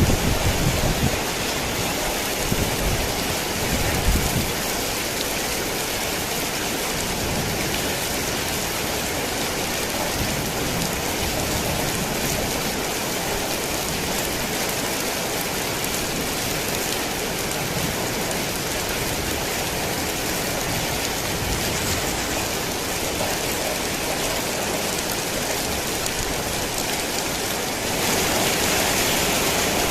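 Heavy rain falling steadily, a dense, even hiss, with a few low rumbles in the first four seconds. The rain grows a little louder near the end.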